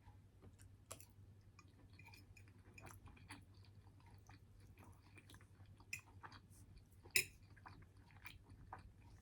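Close-up mouth sounds of a person chewing a butter chicken rice bowl with naan: faint, irregular wet smacks and clicks, with two sharper clicks about six and seven seconds in, over a faint low hum.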